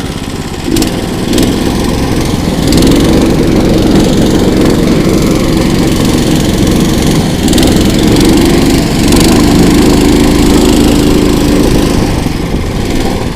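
Small engine of a KOiRA all-season motorized towing unit running steadily. It picks up speed about a second in and then runs at higher revs, easing off near the end.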